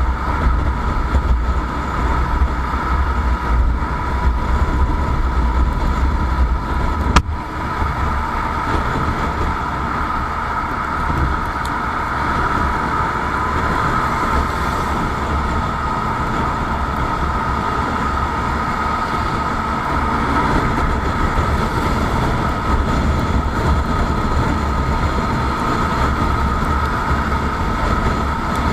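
Motorcycle on the move: steady engine and road noise with a low wind rumble on the microphone, and a steady whine near the top of the sound. A single sharp click about seven seconds in.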